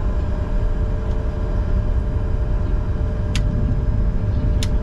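Steady cockpit noise of a Bombardier Challenger 605 business jet taxiing: a low rumble with a constant hum from the idling engines and air systems. A few short sharp clicks come near the end.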